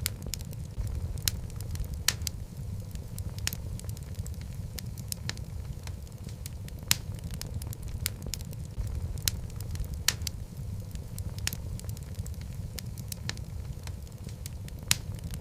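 Logs burning in a fireplace: a steady low rumble of flame with frequent sharp crackles and pops at irregular intervals.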